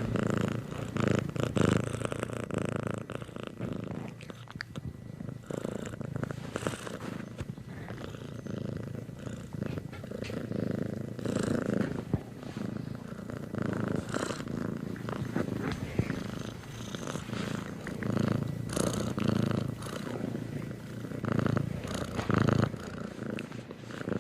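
Domestic cat purring continuously in a low, pulsing rumble that swells and eases. It cuts off suddenly at the very end.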